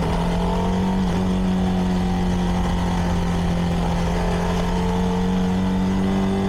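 CFMoto 300NK's single-cylinder engine idling steadily through its stock exhaust.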